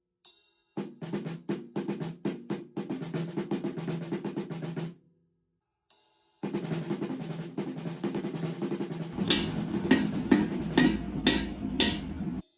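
Improvised drum-kit track: fast runs of snare strokes and rolls that break off about five seconds in, then start again and grow louder and fuller from about nine seconds in, with bass drum and sharp, bright hits.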